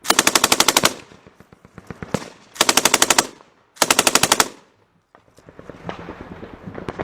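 Close automatic gunfire in three rapid bursts of about a second or less: one at the start and two more around three and four seconds in. Scattered single shots come between the bursts, and fainter shots follow near the end.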